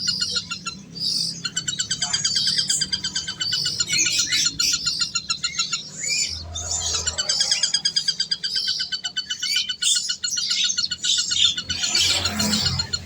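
Birds chirping and trilling almost without pause, in fast runs of high repeated notes.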